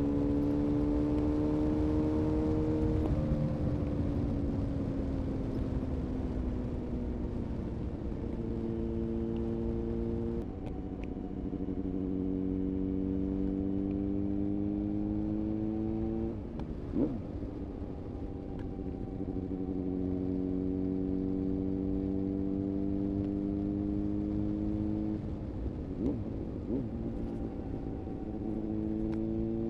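A 2000 Honda CBR-929RR Fireblade's inline-four engine with an Erion full racing exhaust, ridden at moderate revs. Its note climbs slowly in each gear, then drops several times at gear changes or when the throttle is rolled off, with a brief blip about 17 seconds in.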